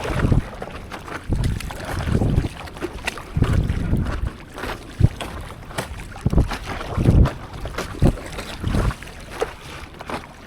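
Water splashing and sloshing from paddling a stand-up paddleboard on the sea, with wind buffeting the microphone in irregular low thumps about every second.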